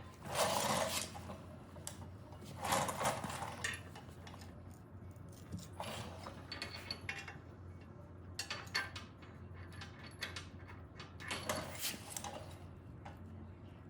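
A metal tool scraping and clinking against steel as it is worked down a deep pin bore to find and catch the pin, in short bursts of rattling about every two to three seconds, over a steady low hum.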